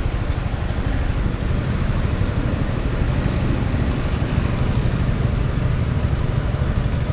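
Steady wind buffeting on the helmet-mounted action camera's microphone while riding, over the engine and road noise of a Honda Forza 350 scooter.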